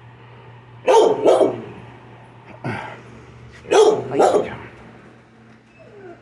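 A dog barking in a shelter kennel: two quick double barks about three seconds apart, with a weaker single bark between them, each trailing off in a short echo.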